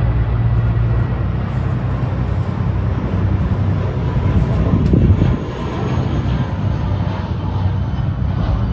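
A motor yacht's engines running steadily at low speed while it manoeuvres under power.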